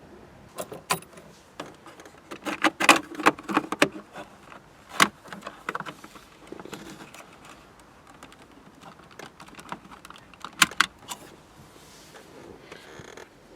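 Metal clinks and knocks of tools and car parts being handled: a quick cluster of sharp strikes a few seconds in, a single loud one around five seconds, and another couple near the end.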